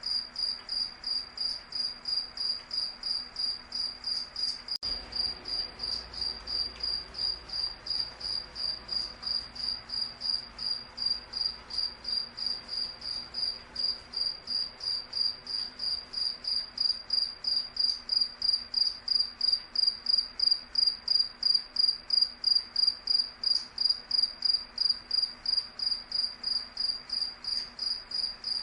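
Cricket chirping in a steady, even rhythm of about three high-pitched chirps a second, somewhat louder for a stretch in the second half.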